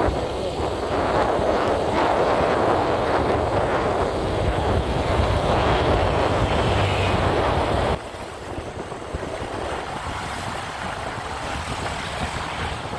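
Wind rushing over the microphone on a moving Honda CB Unicorn motorcycle, mixed with the single-cylinder engine and road noise. The wind noise drops suddenly about eight seconds in and carries on quieter.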